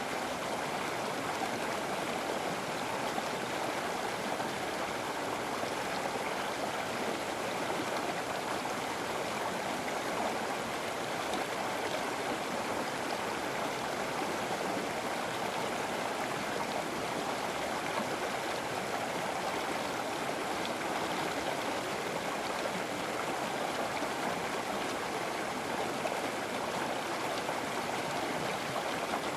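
A river flowing steadily over rocks, a continuous rushing with light gurgling and no pauses or changes.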